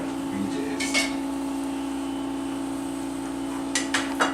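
Sharp clicks and clinks of something knocking on a dish: one about a second in, then a quick run of four near the end, over a steady low hum.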